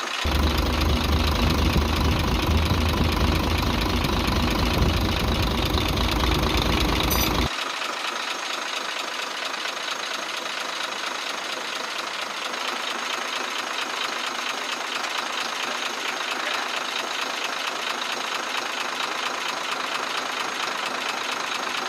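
Six-cylinder FE6 truck diesel engine running with a rapid, even ticking and knock, which the mechanic thinks is typical of tappets, along with injectors that do not knock evenly. A heavy low rumble lies under it for about the first seven seconds, then cuts off suddenly.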